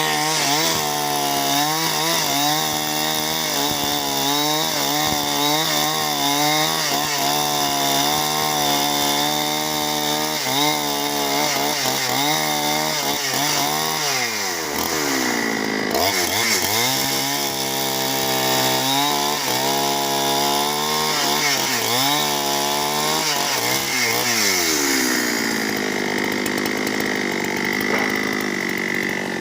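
Two-stroke chainsaw running at high revs while cutting timber into posts, its pitch wavering under the load of the cut. The revs drop and pick up again about halfway through, and fall off again near the end.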